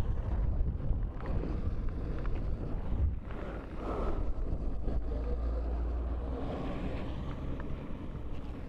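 Motorcycle on the move, wind buffeting the microphone over a steady low rumble of engine and road.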